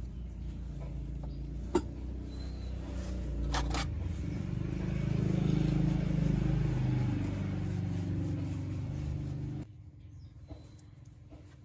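A motor runs with a steady low drone that swells in the middle and then cuts off abruptly near the end. A sharp click sounds about two seconds in, and a couple more follow shortly after.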